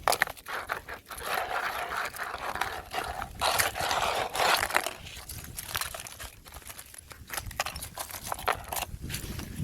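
Fresh ice cracking and crunching: a run of sharp cracks and clicks, with two longer crunching stretches starting about one and a half seconds in and about three and a half seconds in.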